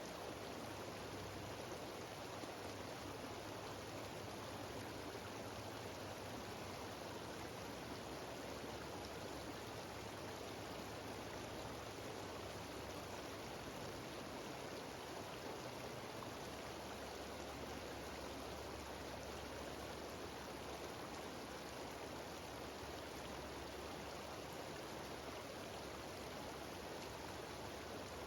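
Small mountain waterfall and its stream cascading over rocks: a steady, even rush of water that does not change.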